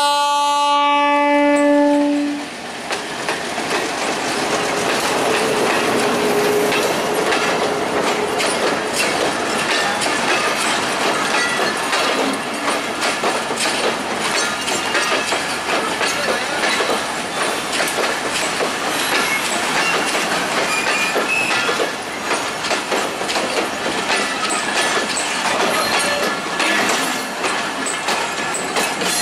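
A Bangladesh Railway diesel locomotive's horn holds one long note that cuts off about two seconds in. Then the passenger train's coaches pass close by, their wheels clattering over the rail joints amid steady rolling and rattling noise.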